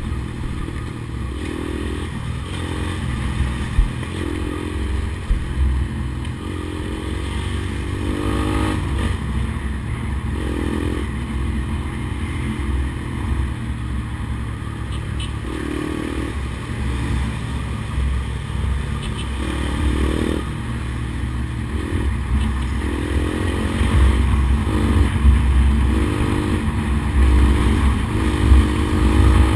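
Honda CBX 200 Strada's single-cylinder four-stroke engine under way, its pitch rising again and again as it accelerates and shifts up through the gears, over a strong low rumble. It grows louder near the end.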